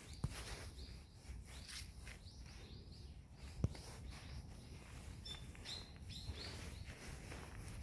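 Small birds chirping a few times, mostly in the second half, over the soft rustle and scuff of bare feet walking on a dirt path through dry grass. A sharp tap about three and a half seconds in is the loudest sound.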